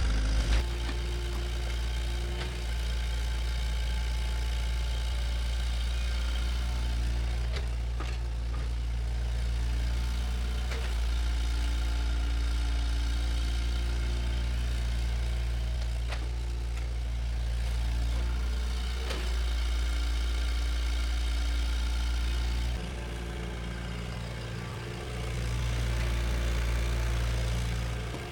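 Bulldozer's diesel engine running steadily, easing off a little toward the end and then picking up again.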